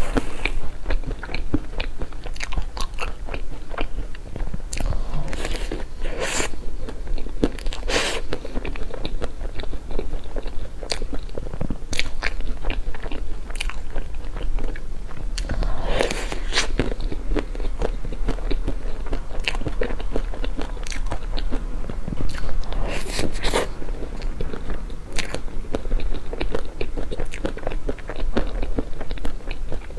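Close-miked eating sounds of a layered mille-feuille cake: repeated biting and chewing with crisp clicking and crunching, and a few louder bites spread through.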